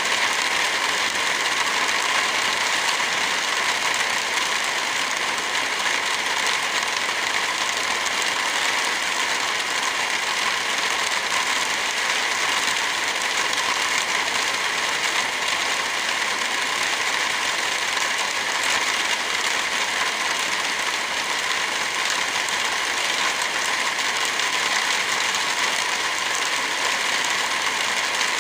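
Heavy rain falling in a steady, dense hiss of drops, with no thunder.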